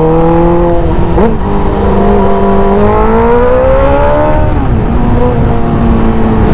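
Suzuki GSX-R600's inline-four engine under way, its pitch climbing, dipping about a second in, climbing again and then dropping near five seconds before holding steady. Wind rushes over the helmet microphone underneath.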